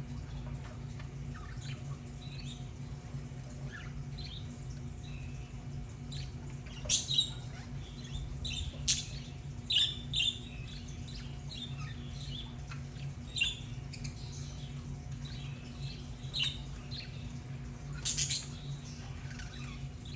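Budgerigars chirping and chattering, with a few louder, sharp calls scattered through, over a steady low hum.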